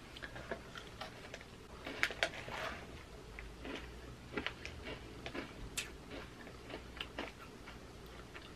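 Biting into and chewing a small yogurt-coated shortbread cookie: faint, irregular crunching clicks, the strongest about two seconds in.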